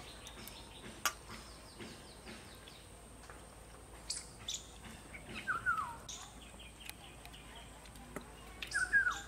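Birds calling: a quick run of high chirps, then short whistled notes that drop in pitch, loudest near the end. A single sharp click comes about a second in.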